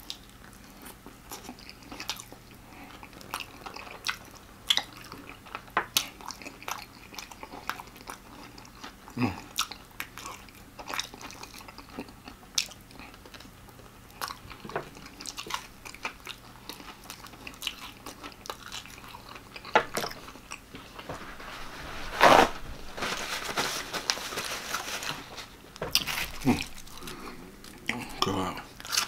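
Crunching and chewing of extra-crispy fried chicken, with sharp crackles of breading scattered throughout; the loudest crunch comes about two-thirds of the way through.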